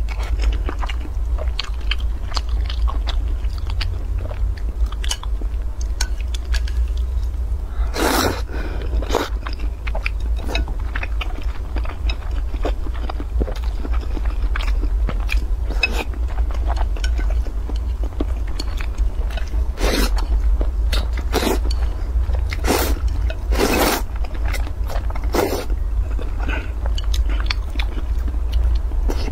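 Close-miked eating of noodles and boiled eggs: chewing and mouth sounds with scattered sharp clicks, over a steady low hum.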